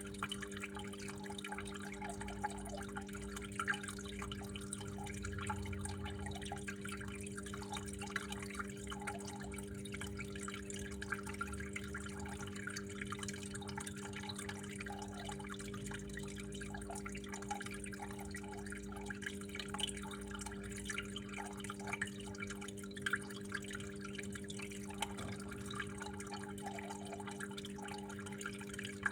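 Water flowing and dripping steadily in many small irregular splashes, over a steady low hum.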